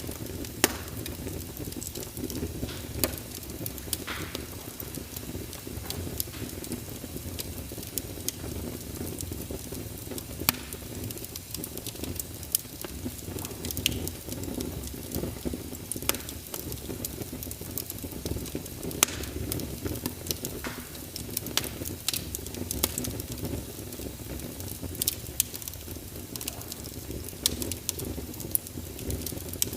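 Wood fire crackling in a fireplace: a steady low rush of burning with irregular sharp pops and snaps scattered throughout.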